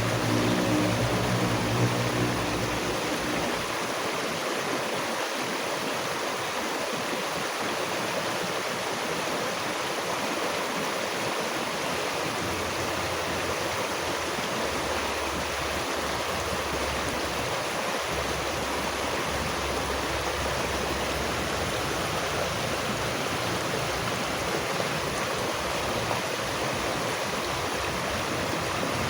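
Steady rushing of a stream of flowing water, even and unbroken. A low hum sits under it for the first few seconds.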